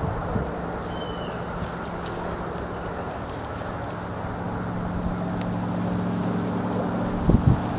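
Steady outdoor background with a low engine hum, like a vehicle running some way off, a single short bird chirp about a second in, and a few sharp knocks near the end.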